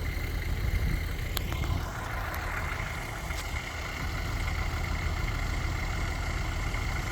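Engine idling steadily: a low rumble with a thin steady whine over it, and a few faint clicks in the first few seconds.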